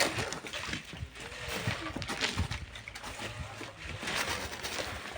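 Shovels scraping into and tossing loose volcanic sand, a string of short gritty scrapes about every second, with faint voices and a low steady hum underneath.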